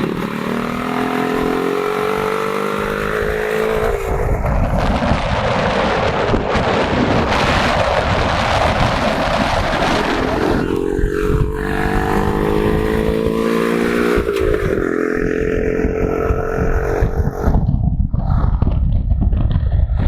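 Motorcycle engine running while riding. Its pitch climbs as it accelerates, once at the start and again about halfway through, with a loud rushing noise between and after the climbs.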